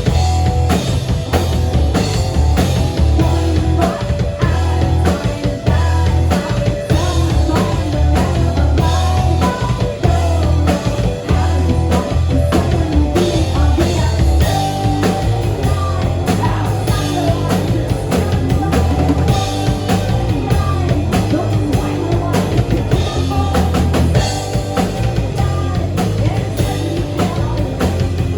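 Live rock band playing a song: a drum kit keeping a steady beat over a heavy bass line, with guitar.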